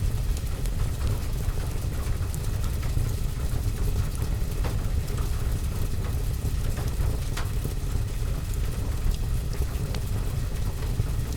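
Wood fire crackling in a fireplace over steady rain: a constant low rumbling hiss with scattered sharp pops and crackles at irregular times.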